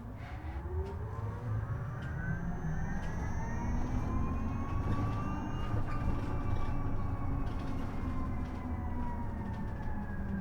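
Isuzu Erga EV electric bus's drive motor whining in several parallel tones over road rumble inside the bus. The whine rises in pitch as the bus accelerates for about six seconds, then slowly falls again.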